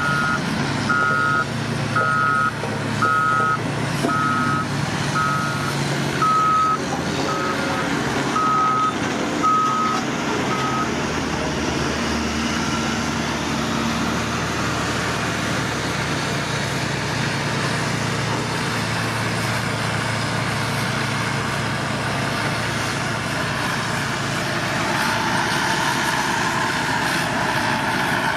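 Reversing alarm on a piece of heavy construction machinery beeping steadily, about once a second, over the machine's running diesel engine. The beeping stops about eleven seconds in, and the engine keeps running.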